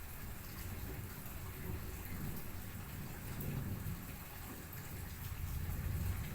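Heavy rain falling steadily, with a low rumble of thunder that swells in the middle and again near the end.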